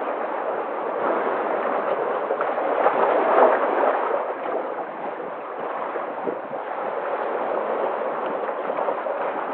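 Sea waves washing in a continuous rush of water, swelling louder about three seconds in and then easing.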